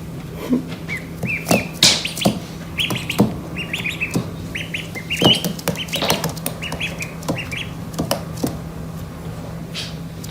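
Birds chirping: many short, high cheeps in quick runs, with scattered clicks and knocks among them.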